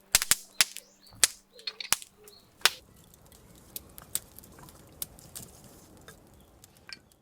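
Wood fire crackling: irregular sharp pops and snaps over a faint hiss, thick and loud in the first three seconds, then sparser and quieter.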